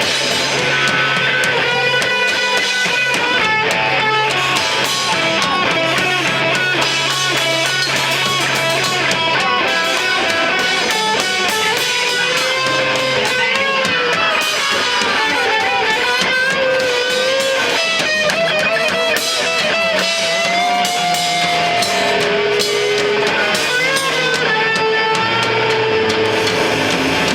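Live band music: an electric guitar plays a lead line with bent, sliding notes over held bass notes and drums.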